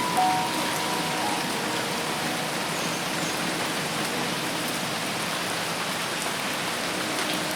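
Dense, steady rain falling on forest foliage. A few short clear tones sound over it near the start.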